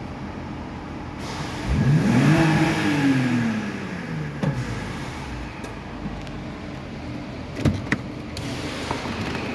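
BMW X5 E53 3.0i's M54 3.0-litre straight-six idling, then revved once about two seconds in: the pitch climbs quickly and falls back to idle over the next two seconds. A couple of sharp clicks near the end.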